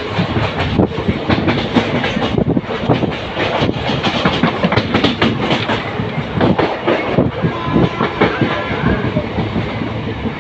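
A passenger express train running at speed, heard from inside a coach: the wheels clatter over the rail joints under a steady rush of running noise.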